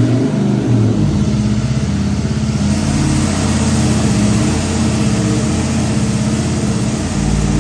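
Chevy 305 small-block V8 running loud and hard under load on a water-brake dynamometer during a power pull, its sound gaining a harsher high end about three seconds in.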